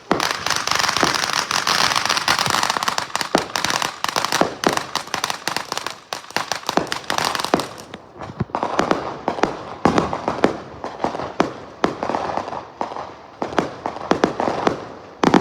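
Consumer fireworks going off. A dense run of rapid crackling bangs fills about the first eight seconds, then a string of separate sharp pops and bangs follows.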